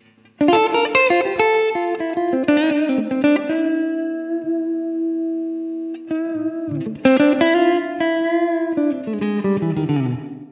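Electric guitar played through a Poly Effects Poly Verbs reverb pedal. A picked single-note phrase ends in a held note, then a second phrase comes in about seven seconds in, with notes falling in pitch near the end.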